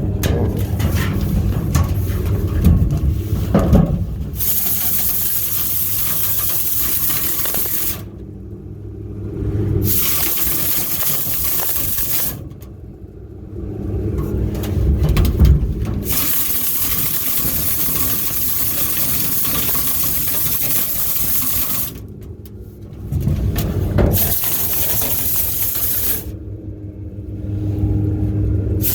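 Compressed air blowing through a dryer vent duct in repeated bursts of loud hiss a few seconds long, switched on and off with short gaps, over a low rumble.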